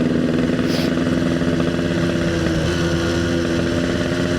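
Yamaha RX King's single-cylinder two-stroke engine running steadily while riding, its note stepping up slightly a little over halfway through.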